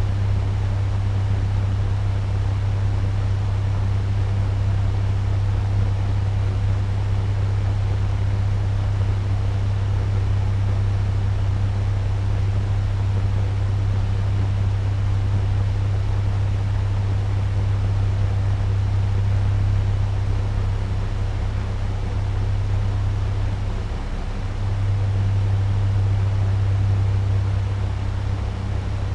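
Turbo fan running at medium speed: a steady rush of air over a constant low motor hum, with a brief dip in level near the end.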